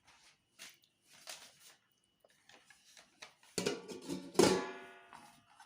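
A plucked string instrument like a guitar, strummed a few times. The loudest strum comes about four seconds in and rings out, fading over about a second.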